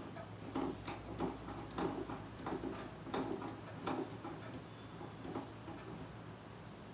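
Tractor top link being turned by hand with a home-made adjustment wheel, about two short creaks and scrapes a second from the threaded link, dying away about five seconds in.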